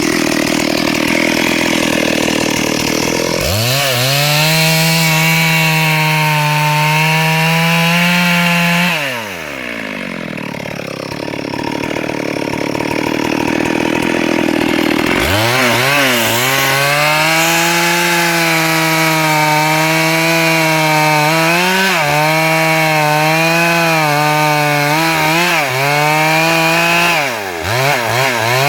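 Two-stroke chainsaw cutting a log, revving up to full throttle a few seconds in and holding for about five seconds. It then drops back to a lower, rougher running speed and opens up again for a long cut of about twelve seconds. Its pitch wavers as the chain bites into the wood, and it stutters near the end.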